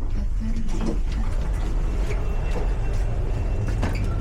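Underground station ambience: a steady low rumble with scattered clicks and knocks and faint voices in the background.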